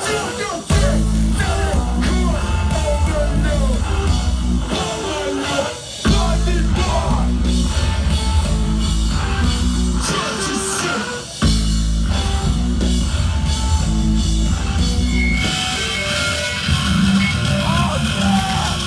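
Live hardcore punk band playing loud, with heavy bass, guitar, drums and shouted vocals. The band stops short twice and crashes back in. Near the end the bass drops away, leaving a noisier, hissing wash.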